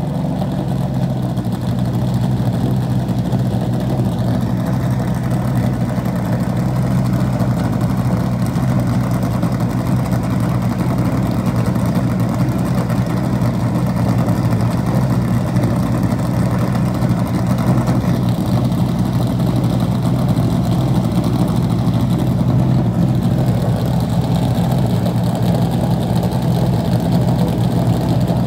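NASCAR Cup car's pushrod V8 engine idling steadily while warming up.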